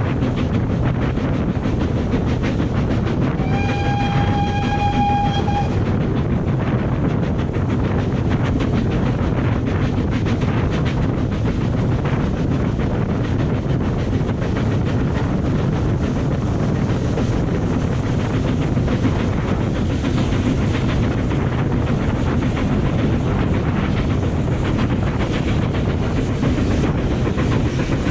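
A train running with a steady rumble and rapid clicking of wheels on the rails. About three seconds in, a whistle sounds once on a single held note for about two seconds.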